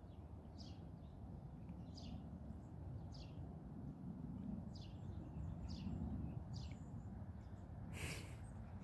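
A bird chirping over and over, short high calls about once a second, over a steady low outdoor rumble; a brief rustle of noise near the end.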